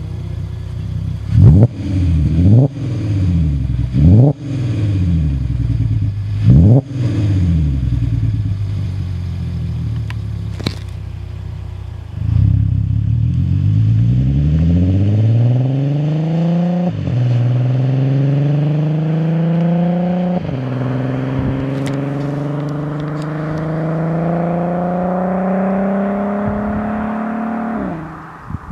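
A Volkswagen Passat's 3.2 VR6 engine through a BBK aftermarket exhaust. It is blipped four times from idle, each quick rise and fall in revs. It then accelerates hard through two upshifts, the revs climbing steadily between them, and the throttle comes off near the end.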